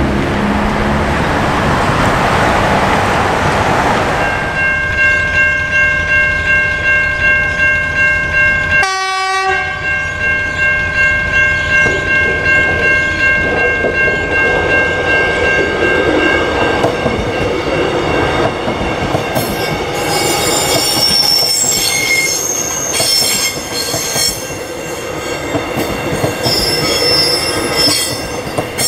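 Level crossing warning bells ringing in a steady, pulsing pattern. Then a suburban electric train approaches and passes close by, its wheels squealing with a high ringing and rumbling on the rails. Cars pass over the crossing at the start.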